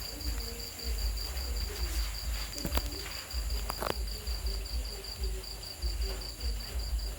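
Night insects, crickets by the sound, chirping in a steady high, evenly pulsing trill over a low rumble. Two short clicks come a little under a third and just over half of the way through.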